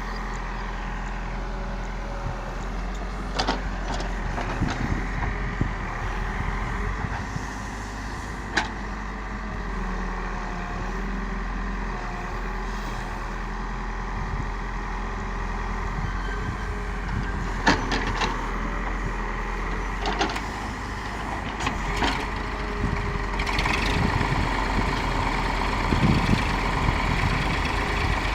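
Heavy diesel engine running steadily, with occasional sharp knocks and clanks. It grows louder near the end.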